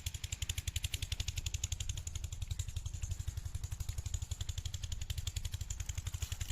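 8 hp Kirloskar single-cylinder diesel pumpset engine running steadily, its exhaust beating evenly at about ten beats a second.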